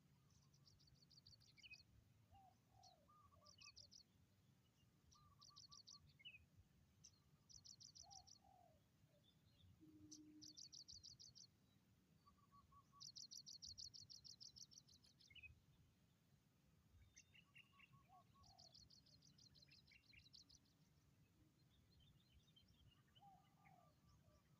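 Faint bird calls: short bursts of rapid, high trilled chirps repeated every couple of seconds, with fainter lower notes, some falling, in between.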